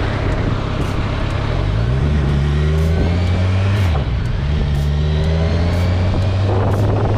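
Kawasaki Z1000SX inline-four motorcycle engine running under way, its note climbing about two seconds in and dropping in pitch around the middle, with heavy wind noise on the microphone.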